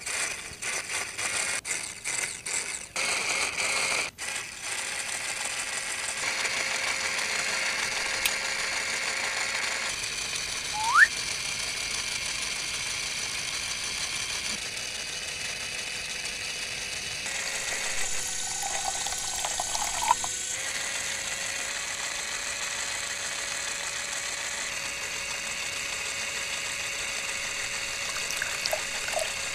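Small electric motor of a homemade toy tractor running steadily, turning a miniature sugarcane juicer's rollers through a rubber belt: a continuous whir with a high whine while thin cane sticks are crushed between the rollers. Scattered clicks in the first few seconds and a short rising squeak about eleven seconds in.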